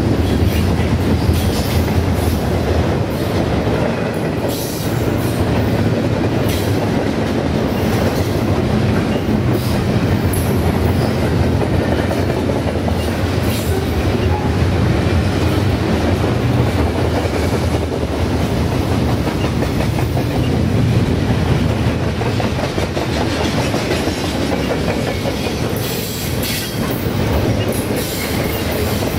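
Double-stack intermodal container train rolling past: a steady rumble of the well cars' steel wheels on the rails, with scattered sharp clacks from the wheels over the track.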